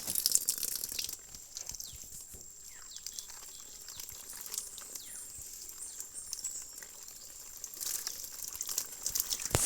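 Water splashing and trickling, with a steady high-pitched insect whine and a few faint chirps. Heavier splashing comes near the end.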